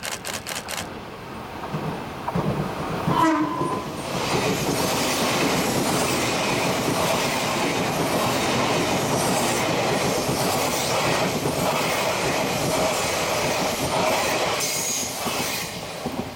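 Odakyu 8000 series electric train passing close by: a quick series of clicks at the start, a short horn blast about three seconds in, then the steady rumble and rattle of wheels and running gear as the cars go past. A brief high-pitched squeal sounds near the end, and the noise fades as the last car clears.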